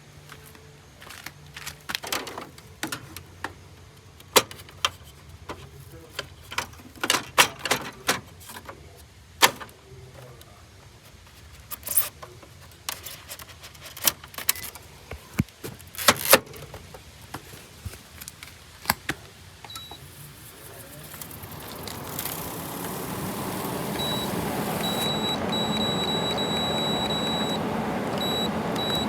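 Scattered clicks and knocks, then about two-thirds of the way in a 2001 Kenmore 8,000 BTU room air conditioner starts up: its fan rush rises over a couple of seconds and settles into a steady flow of air. A thin high tone sounds on and off over the running unit near the end.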